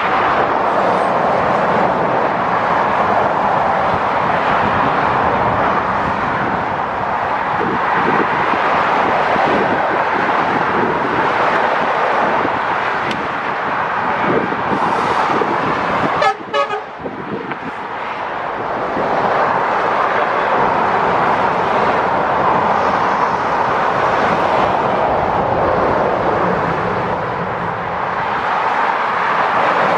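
Steady motorway traffic noise, the level rising and falling a little as vehicles pass. A brief horn toot sounds about halfway through, followed by a short dip in the noise.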